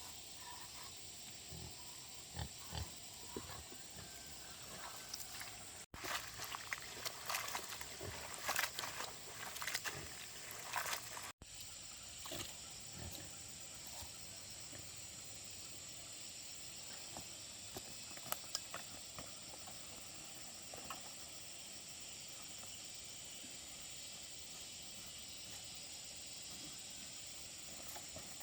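Pigs grunting and moving about, busiest in the middle of the stretch, over a steady high hiss of insects.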